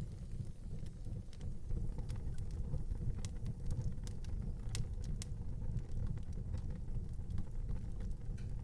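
Wood fire burning in an outdoor fireplace: scattered sharp crackles and pops over a low steady rumble.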